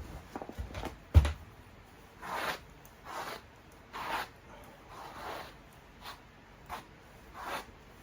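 A brush stroked repeatedly through the fur of a dried coyote pelt, short swishes about once a second. A sharp knock about a second in is the loudest sound.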